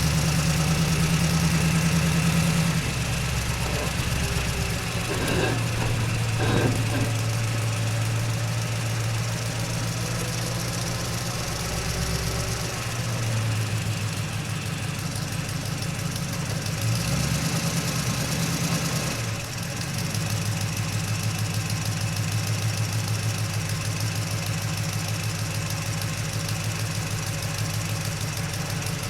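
Truck engine running while driving, a steady low hum whose pitch shifts a few times as the engine speed changes.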